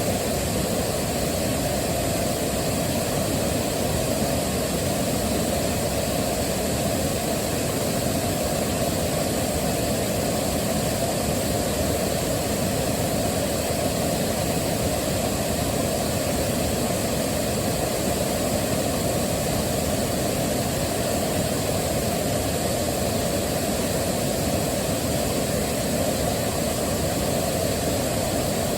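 Waterfall: a steady, even rush of falling water, deepest at the low end, with no changes or separate events.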